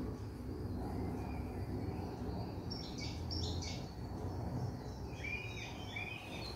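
Faint bird chirping over a low steady hum: a few short high calls about halfway through, then a quick run of short curved notes near the end.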